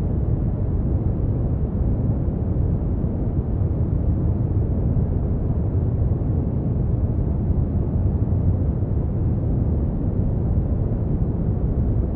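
Synthetic brown noise: a steady, unchanging deep rumbling hiss, strongest in the bass and dull in the treble.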